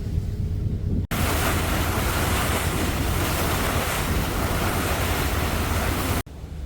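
Loud, steady rush of wind and surf, with wind buffeting the microphone. It starts abruptly about a second in and cuts off just as abruptly near the end. Before it there is a quieter low rumble.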